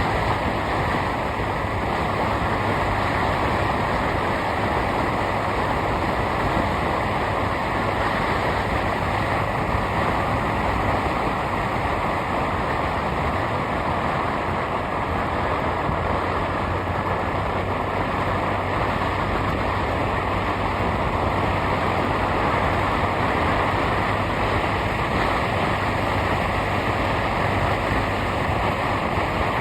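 Steady noise of a vehicle on the move: engine hum under constant road and wind noise, with no breaks or changes.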